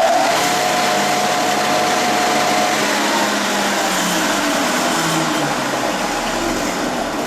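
Belt-drum floor sander running at speed in a test run while its sanding belt tracking is being adjusted, a steady motor whine over loud rushing noise, starting to wind down near the end.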